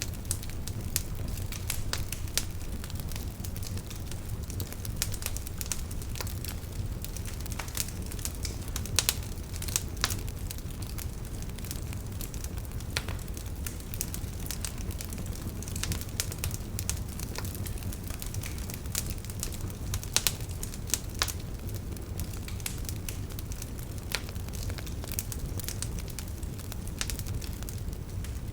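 Wood fire crackling: a steady low rumble of burning with frequent sharp pops and snaps at irregular intervals, a few louder pops about nine and twenty seconds in.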